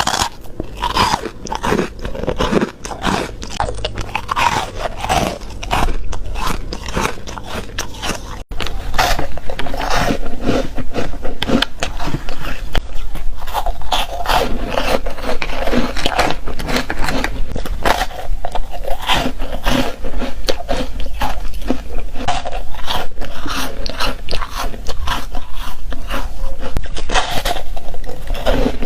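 Close-miked biting and chewing of ice: a rapid, continuous run of crisp crunches. The sound drops out briefly about eight seconds in, then comes back louder and denser.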